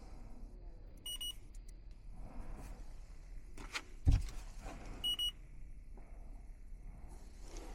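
Two short electronic beeps about four seconds apart from a handheld electronic refrigerant leak detector being worked around an air conditioner's joints, with a single thump between them.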